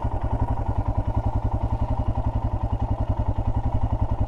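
Royal Enfield Himalayan's single-cylinder engine idling with a steady, even beat of about ten pulses a second.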